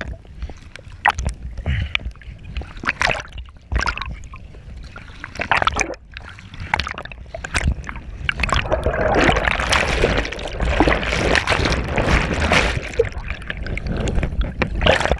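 Water splashing and sloshing close to a GoPro, with a low rumble underneath. The splashes come in irregular bursts at first, then turn into a dense, continuous rush of water from about eight seconds in.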